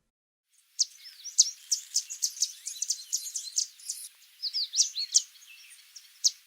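Yellow warbler singing: a quick series of short, sharp, high-pitched notes and slurred whistles, with a brief pause partway through.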